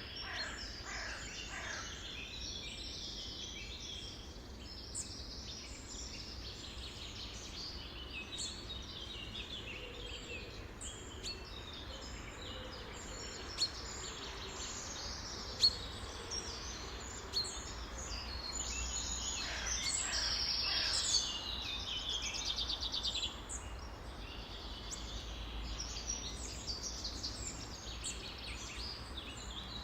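Many wild birds chirping and singing at once in a dense, overlapping chorus of short high notes and trills, busiest about two-thirds of the way through.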